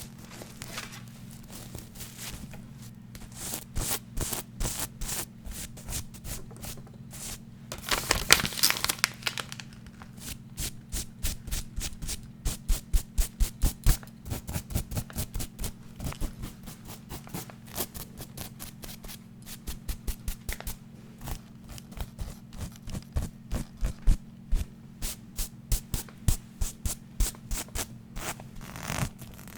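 Fast ASMR tapping and scratching on small hard objects: quick runs of taps, about four or five a second at their steadiest, with a louder stretch of scratching or brushing about eight seconds in.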